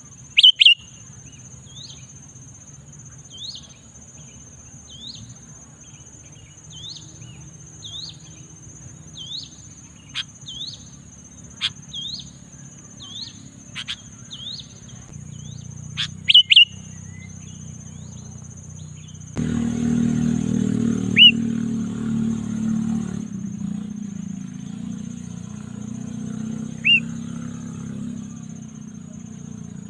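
Sooty-headed bulbul calling: a steady series of short, rising chirps about once a second, with a few louder, sharper calls in between.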